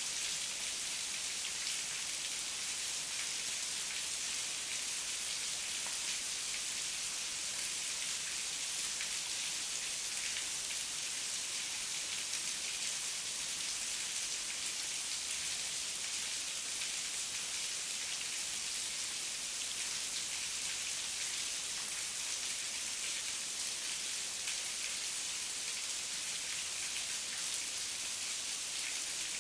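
Steady heavy rain falling, a dense even hiss of many drops hitting surfaces.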